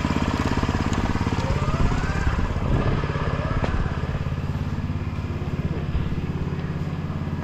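John Deere 5115M tractor's four-cylinder diesel engine running steadily at idle, just started with fresh oil after an oil change.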